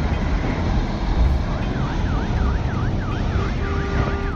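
Emergency vehicle siren in a fast yelp, about three rising-and-falling sweeps a second, starting about a second and a half in over a heavy low rumbling noise; a steady tone joins near the end.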